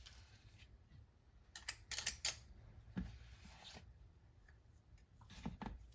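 Faint clicks and light scrapes of a spring-handled cookie scoop working cookie dough. They come in small groups about two seconds in, around three seconds, and again near the end.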